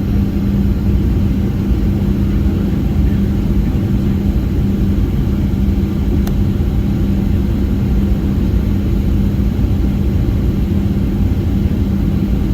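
Steady cabin noise inside a Boeing 737-700 airliner in flight on approach: a low rumble of engines and airflow with a steady hum.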